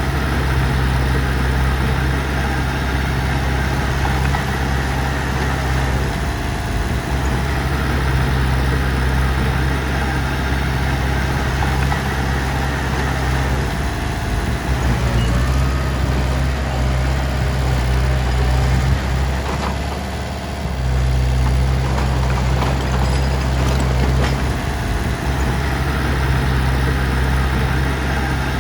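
Heavy diesel engine running steadily at a low, even pitch, with a brief drop in level about twenty seconds in before it picks up again.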